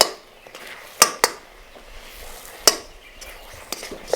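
Kitchen utensils knocking and clinking in four sharp, irregular strikes.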